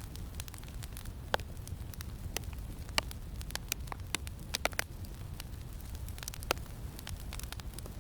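Campfire crackling with irregular sharp pops, a few of them louder, over a steady low wind rumble.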